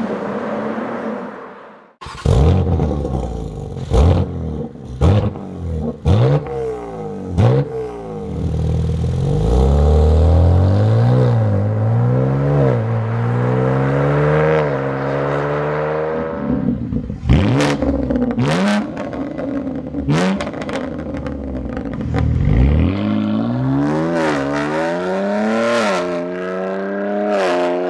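BMW M3 G81's S58 twin-turbo straight-six running through a REMUS cat-back exhaust with homologated rear muffler. It is blipped into several sharp revs with cracks and pops on the overrun, then pulls hard with the pitch climbing and dropping back at each gear change.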